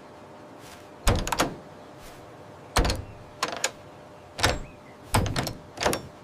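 A series of about six separate heavy thuds, roughly a second apart, each dying away quickly.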